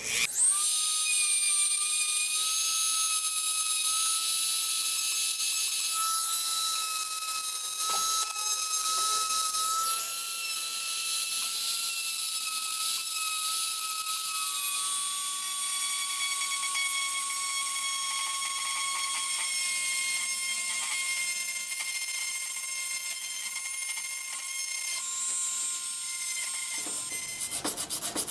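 A small high-speed power tool spinning up and running with a steady high whine over a hiss. Its pitch drops slightly about halfway through as it comes under load, and it stops near the end.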